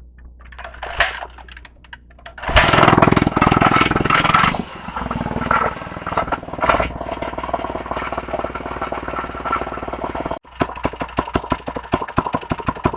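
Small gas mini bike engine starting: it catches about two and a half seconds in, revs loudly for a couple of seconds, then settles into running with a rapid popping beat, cutting out for an instant near the end before picking up again. The popping comes with an exhaust that has worked loose.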